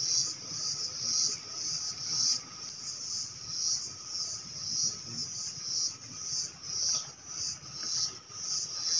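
Insects, such as crickets, calling in a high, steady chorus that pulses about twice a second.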